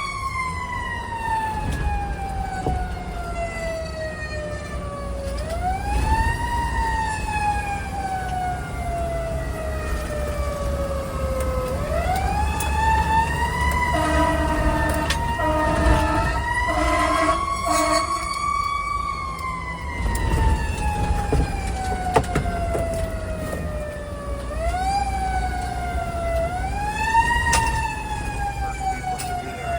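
Fire truck siren winding up quickly and falling slowly in pitch, again and again, with a string of short horn blasts about halfway through and a low engine rumble underneath.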